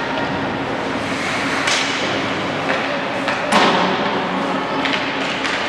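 Ice-hockey rink ambience: a steady hum of the rink with a few sharp knocks that echo through the arena, the loudest about three and a half seconds in, typical of a puck and sticks striking the boards and ice.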